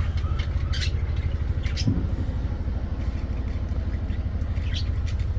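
A steady low rumble, with a few short high chirps from pet parakeets about one, two and five seconds in.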